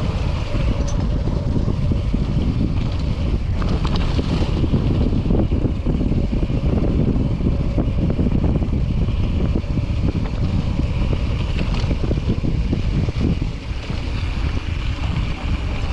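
Steady wind rumble on the microphone of a camera carried on a moving mountain bike, with scattered clicks and knocks from the ride.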